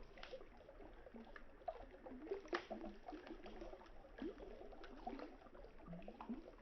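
Wood campfire crackling, with scattered sharp pops (the loudest about two and a half seconds in), over the low gurgle of flowing river water.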